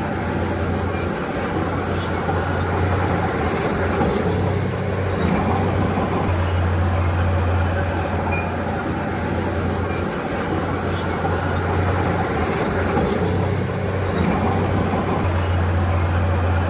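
Komatsu D31P crawler bulldozer's diesel engine running, its low drone swelling and easing every few seconds as the load changes, with scattered faint high squeaks and clicks.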